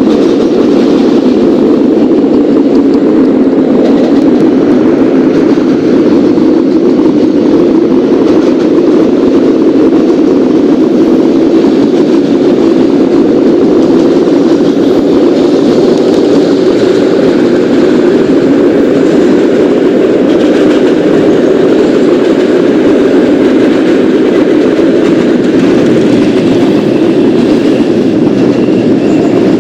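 Subway train running along the track: a loud, steady, unbroken running noise.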